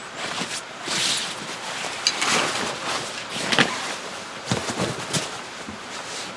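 Camping gear being handled: irregular rustling swishes and several sharp clicks, over a steady background hiss.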